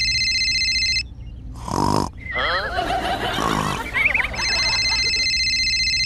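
Edited-in cartoon-style sound effects: a steady high electronic tone for about a second at the start and again past the middle, with a short blip and a stretch of wobbling, warbling effects between them.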